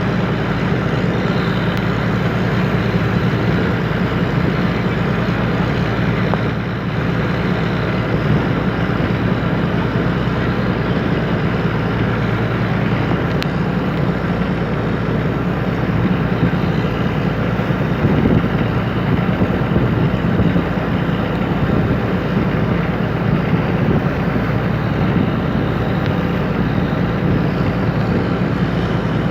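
A fishing boat's engine running steadily, with wind noise on the microphone.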